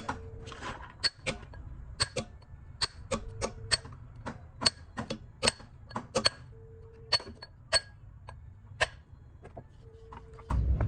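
Irregular sharp clicks and taps, about two or three a second, several with a brief metallic ring, over a low steady hum.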